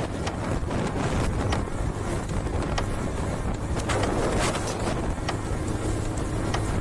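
Motorcycle running at riding speed, with wind buffeting the microphone and a steady low hum underneath.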